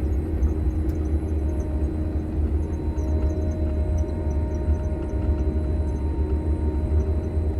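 Grimme Varitron 270 self-propelled potato harvester running steadily while lifting potatoes: an even, low engine drone with a constant hum.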